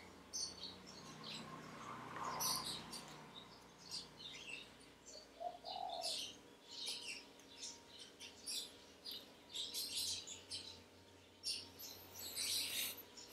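Birds chirping faintly with short, high chirps about twice a second, over a faint steady hum.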